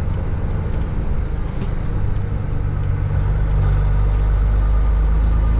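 Caterpillar 3406E diesel of a Freightliner FLD120 semi truck running steadily, heard from inside the cab; about three seconds in its note deepens and grows a little louder.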